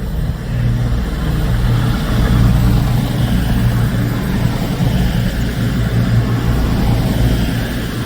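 Diesel train engine running with a steady, loud low drone.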